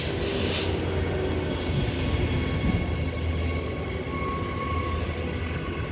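Transperth electric multiple-unit train pulling out of the platform: a steady low rumble of motors and wheels, with a short hiss right at the start.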